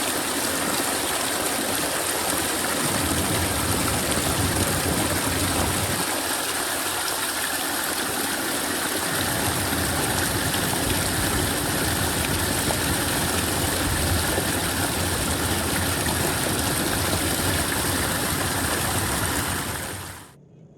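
Steady rushing of running water, like a stream flowing, with a low rumble that comes and goes. It cuts off abruptly near the end.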